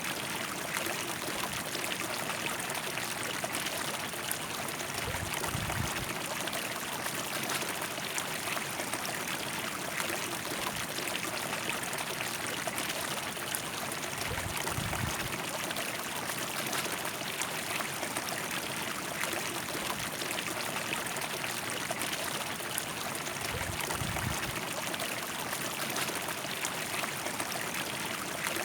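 River water rushing and splashing steadily over rocks. Three short low rumbles come through, about nine seconds apart.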